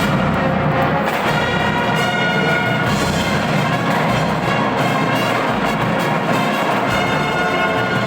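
Marching band playing: the brass section sounds held chords over drums.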